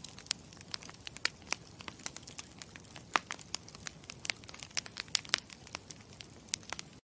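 Campfire crackling: a steady low rush of burning wood with sharp pops and snaps several times a second, cutting off abruptly near the end.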